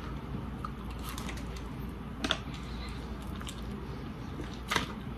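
Close-up chewing and wet mouth sounds of someone eating sauce-covered fries, with two louder smacks, one about two seconds in and one near the end.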